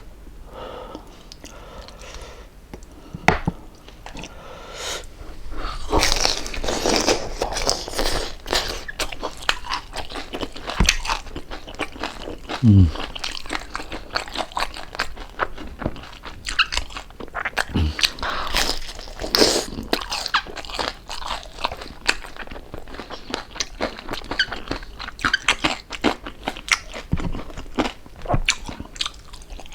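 Crunching and chewing of crispy fried pork jowl: dense, irregular crackly bites and chews throughout.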